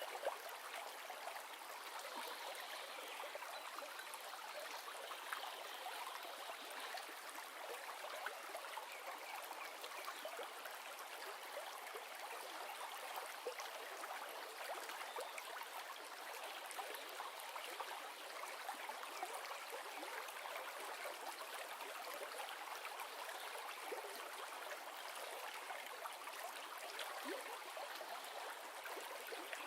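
River water flowing steadily over stones, an even rushing with small splashes and gurgles.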